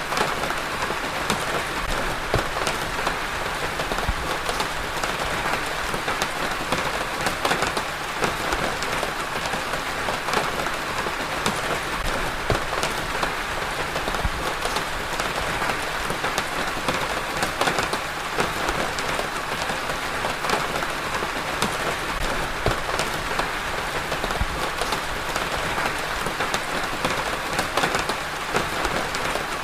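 Steady rain falling on a surface: a dense, even hiss with many separate drops ticking through it.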